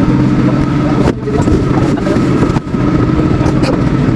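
An engine running steadily, a constant low drone, briefly dipping about a second in and again about two and a half seconds in.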